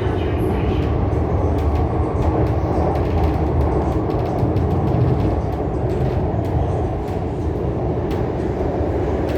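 Steady running noise of a CRRC Changchun EMU heard from inside the car while under way: a continuous low rumble of wheels on rail and running gear, with faint light clicks over it.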